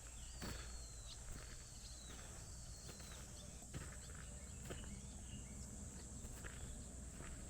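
Outdoor rural ambience: a steady high insect drone, with a few short, thin, falling bird calls in the first three seconds and scattered light clicks or steps.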